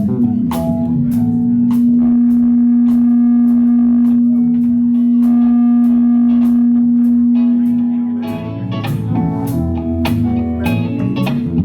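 Live band playing: electric guitar and drums with steady cymbal hits. One low note is held for about eight seconds, then the band comes in with more notes and a fuller sound.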